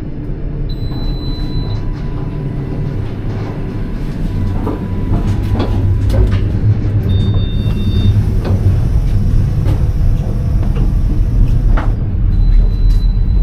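Passenger train carriage rumbling along the track, heard from inside, growing a little louder, with scattered short knocks and clicks.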